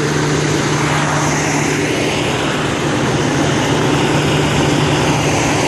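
A car engine held at steady revs, droning with a loud rushing noise, as a stuck car's wheels spin on ice.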